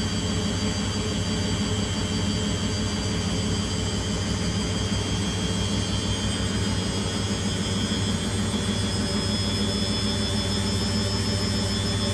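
Beko WTG620M1 washing machine spinning, a steady motor whine over a throbbing drum hum, the whine creeping up in pitch about halfway through as the spin speed rises.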